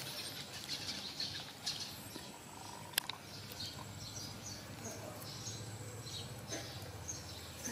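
Small birds chirping faintly over and over, with one sharp click about three seconds in.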